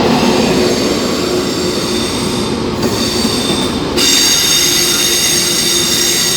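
Two coupled Class 185 diesel multiple units moving through the platform, running steadily, with high-pitched wheel squeal starting about three seconds in and growing louder about a second later.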